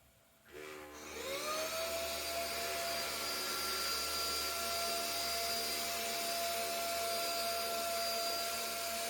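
SMDEE D2 bedding (futon) vacuum cleaner switched on: its motor whines up in pitch for about a second, then runs at a steady high hum.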